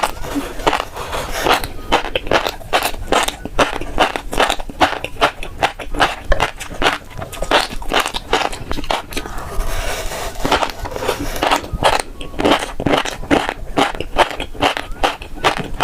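Close-miked eating of fish roe: a rapid, irregular run of crackling pops and wet clicks as the beads are chewed and burst in the mouth, with a short lull about ten seconds in.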